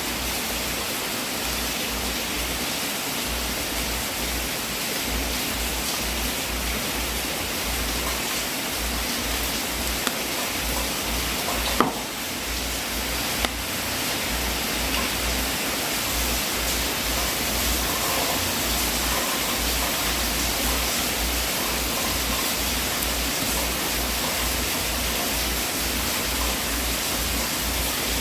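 Wood fire burning in a fireplace: a steady hiss with a few sharp pops, the loudest about 12 seconds in.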